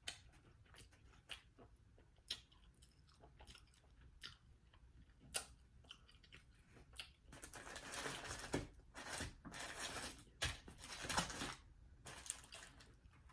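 Chewing and crunching of fried chicken wings, with scattered sharp clicks at first, then denser, steadier chewing from about seven seconds in.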